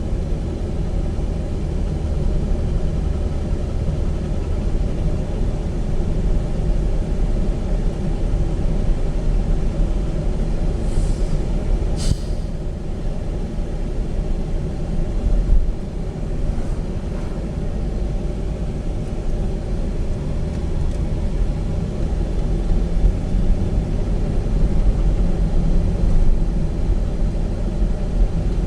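Car road and engine noise heard from inside the moving car's cabin: a steady low rumble, with one sharp click about twelve seconds in.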